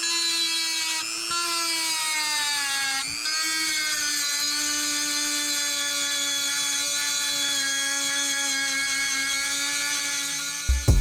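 Small high-speed rotary engraver running with a steady high-pitched whine, its pitch sagging briefly a couple of times as it is loaded and then recovering.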